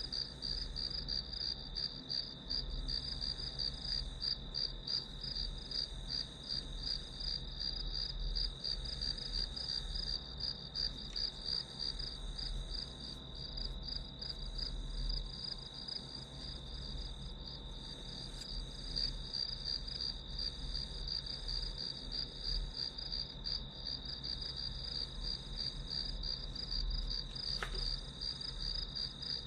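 Crickets chirping in a steady, rapidly pulsing high trill, with a low hum underneath.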